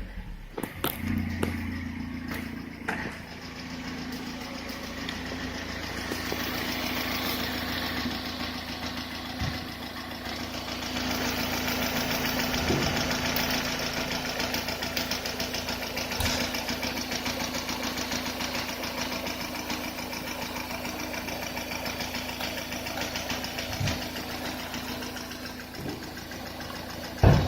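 Fiat Brava 1.6i petrol four-cylinder engine (code 182 A4000) idling steadily, with a few faint knocks here and there.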